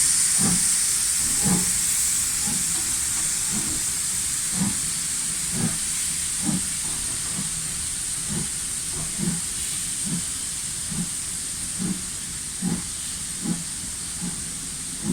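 Steam locomotive hissing steam, with a regular low beat just under once a second that slowly quickens while the hiss gradually fades.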